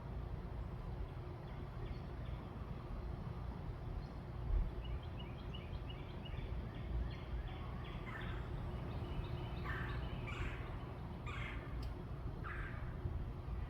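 Birds calling: faint chirps from a few seconds in, then a run of four or five louder short calls in the second half, over a steady low background rumble.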